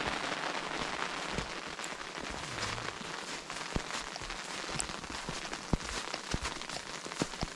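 Rain falling: a steady hiss with scattered sharp taps of drops.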